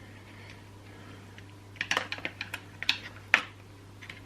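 A quick cluster of light clicks and taps as small chainsaw parts are handled and pressed into place in the handle housing, the loudest about three and a half seconds in, over a steady low hum.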